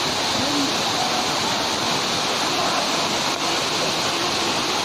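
Waterfall pouring steadily: a dense, even rush of falling water.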